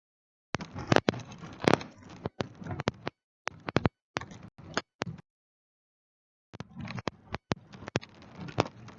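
Irregular clicks and taps with a light crackle between them, coming in short spells that cut off into dead silence three times.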